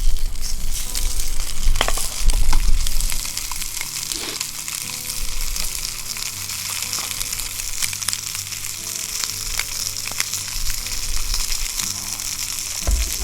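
Hamburg steak sizzling in a cast-iron skillet: a steady high frying hiss with scattered sharp spits and pops. Some low rumbling in the first three seconds.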